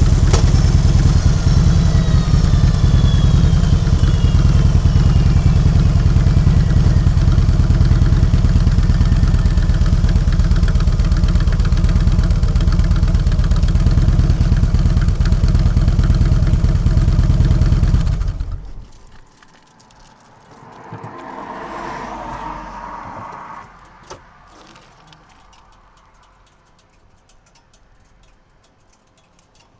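Harley-Davidson Road King's V-twin engine running steadily at low speed, then cut off abruptly about eighteen seconds in. Afterwards a fainter sound swells and fades, followed by a single click.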